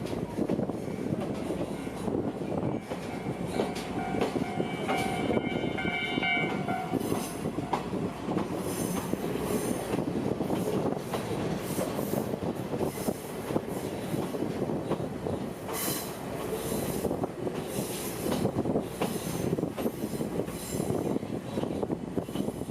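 Kominato Railway Satoyama Torokko trolley train running on the line, a steady rumble of wheels and cars. From a few seconds in to about eight seconds, the wheels give a high ringing squeal; in the second half there are sharp clicks and rattles.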